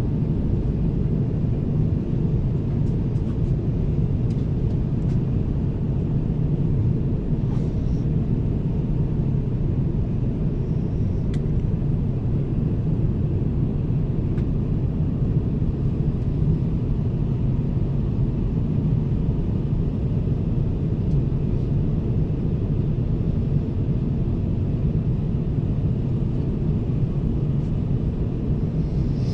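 Steady low rumble of jet engine and airflow noise inside the passenger cabin of an Airbus A350-1000 in flight, with a few faint clicks.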